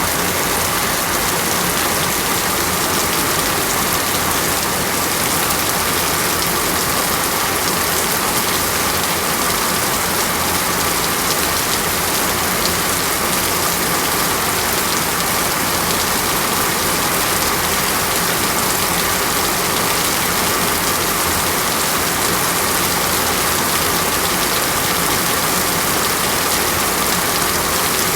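Steady heavy rain pouring down on foliage and ground, an even, unbroken hiss of countless drops.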